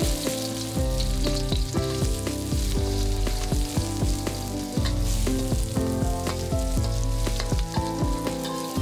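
Sliced garlic hitting hot oil in a wok and sizzling as it is stirred with a spatula. The sizzle starts right as the garlic drops in. Background music with a steady beat plays underneath.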